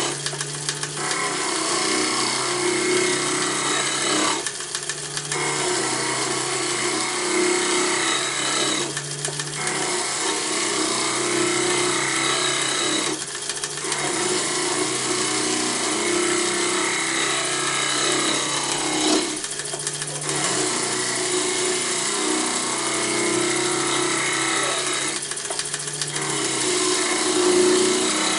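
Wood lathe running while a turning tool scrapes and cuts into the spinning wood, hollowing out the inside of a box. The cutting comes in passes, breaking off briefly about every four to six seconds as the tool is drawn back, over the steady hum of the lathe.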